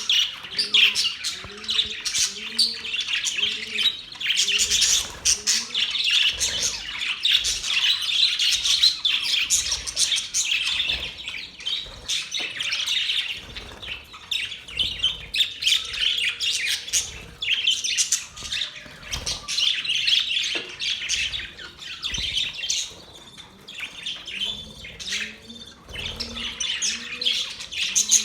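A flock of budgerigars chattering continuously, with dense high chirps, warbles and squawks. A low, short call repeats about twice a second during the first few seconds and again near the end.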